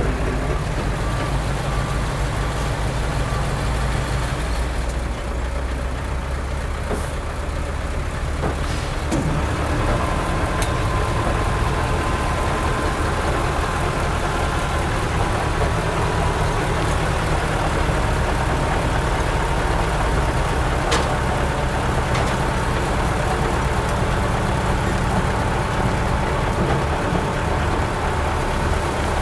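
Heavy diesel construction machinery running steadily with a deep engine drone. A faint steady whine joins in about ten seconds in, and there are a few brief clicks.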